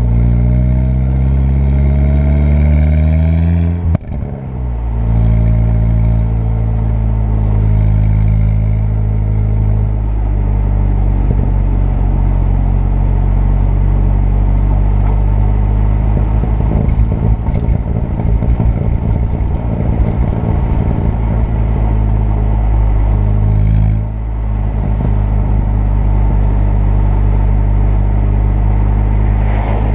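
Turbocharged 2.0 TFSI four-cylinder car engine pulling with its note rising for about four seconds. The note breaks off sharply with a click, then settles into a steady drone at cruising speed.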